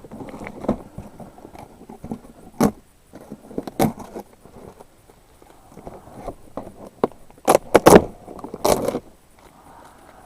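Dry birch bark being torn and handled as tinder: rustling broken by several sharp cracks, the loudest of them bunched about seven and a half to nine seconds in.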